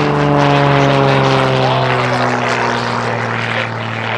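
Propeller airplane flying past, its engine and propeller note falling steadily in pitch as it goes by.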